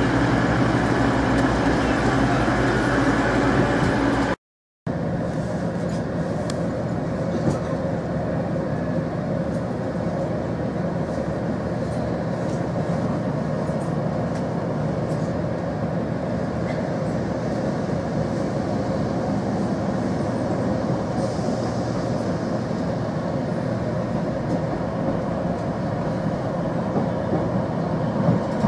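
For the first few seconds, an East Midlands Class 222 Meridian diesel unit moving along the platform with its engines running. Then, after a break, the steady running noise of a Class 153 single-car diesel railcar heard from inside, with faint clicks from the track.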